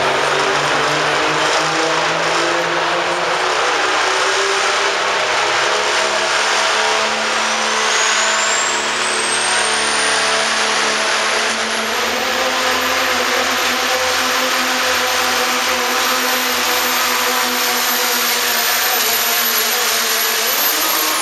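Pro stock diesel pulling truck running hard under load at steady high revs. A high turbocharger whistle rises about a third of the way in, holds, and falls away suddenly at the very end as the run ends.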